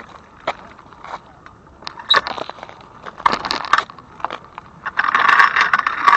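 Bicycle noise from riding over rough ground: scattered sharp clicks and rattles, with bursts of crunching that grow longest and loudest near the end.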